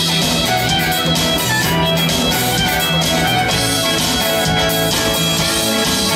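Live band music with guitar and a steady bass line, instrumental with no singing.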